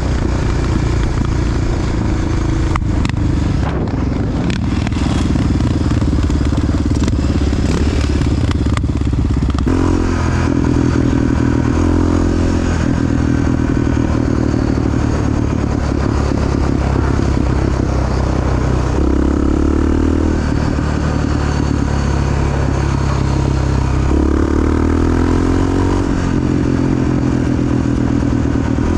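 Big single-cylinder Honda XR dual-sport motorcycle engine running while being ridden, its engine speed stepping up and down several times, with some clatter in the first few seconds.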